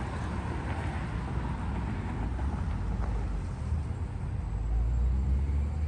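Outdoor background noise: a steady low rumble that grows louder about four and a half seconds in.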